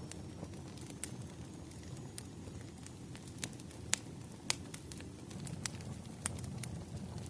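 Wood fire crackling: a steady low rumble of burning logs with sharp, irregular pops and snaps, about eight of them, the loudest a little past the middle.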